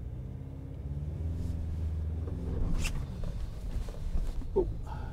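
A 4WD's engine running under load at crawling speed, heard from inside the cabin with front and rear diff lockers engaged; it grows louder about a second in as throttle is applied. A sharp knock about three seconds in.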